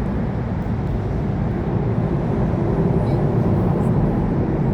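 Freight train passing: diesel locomotive engines running, heard as a steady low noise with faint engine tones.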